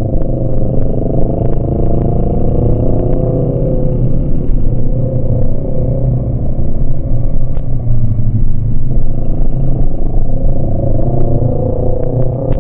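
Yamaha MT-25 motorcycle's 249 cc parallel-twin engine running under way, its pitch sagging over the first few seconds, holding, then rising again near the end as the throttle is opened.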